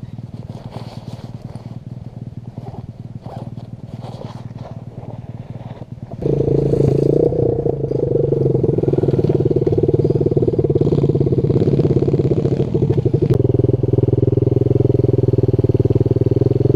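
Pit bike engine running, fairly quiet for the first six seconds, then suddenly much louder and close, holding a steady note to the end.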